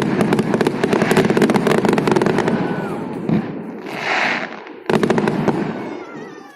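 Festive fireworks display: a dense run of rapid crackling pops for about three seconds that thins out, a short hiss about four seconds in, then a single sharp bang about five seconds in that fades away.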